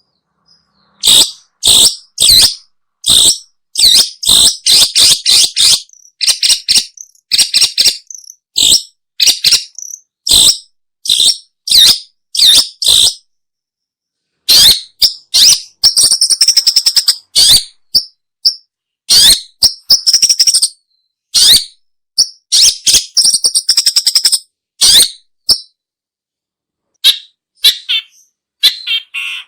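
Long-tailed shrike (pentet/cendet) calling: short, harsh call notes in quick series, with fast rattling runs about four seconds in, around sixteen seconds and around twenty-three seconds, broken by brief silent gaps.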